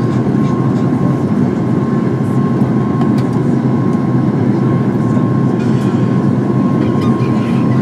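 Steady cabin noise of a Boeing 737 MAX 8 in flight, heard from a window seat: a dense low rumble of engines and airflow with a thin steady whine above it.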